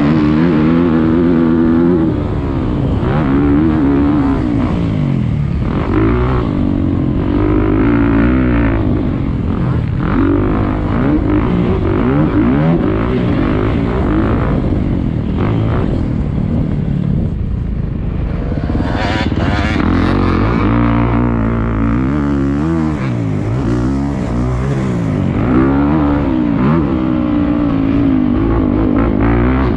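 Motocross bike engine on a lap, its pitch climbing and dropping again and again as the throttle is opened and shut. A short rush of hiss comes about two-thirds of the way through.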